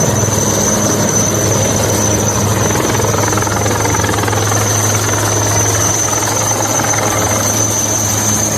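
Helicopter running steadily and loudly, a dense engine-and-rotor noise with a low steady hum and a thin high turbine whine above it.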